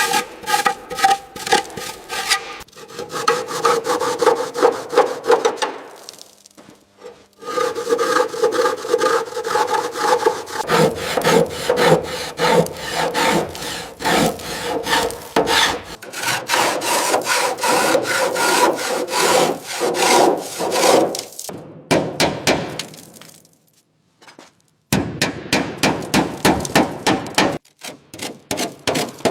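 Fast, rhythmic rasping strokes of an abrasive hand tool worked back and forth over a part, about three to four strokes a second. The strokes come in several stretches with short breaks between them.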